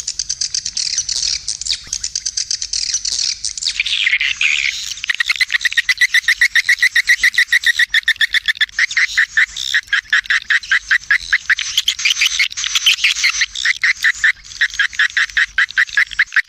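Recorded swiftlet calls used as a lure: a dense chorus of high chirping, then from about four seconds in a fast, regular train of twittering pulses, several a second.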